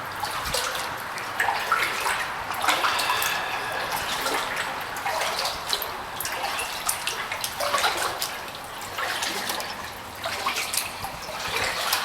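Kayak paddle splashing and dripping water in irregular strokes inside a long highway culvert.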